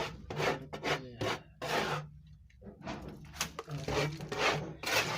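A series of short rubbing or scraping strokes, about two a second, with a steady low hum underneath.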